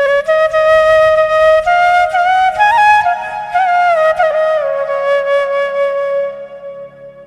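Background music: a slow woodwind melody, flute-like, with held notes and small ornamental turns over a faint low drone, fading out near the end.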